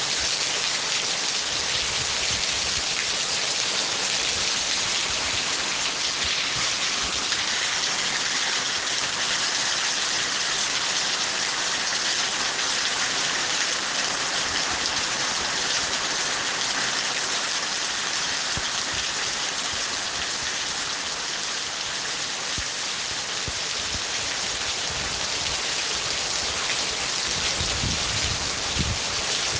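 Steady heavy rain falling, an even hiss with occasional low rumbles toward the end.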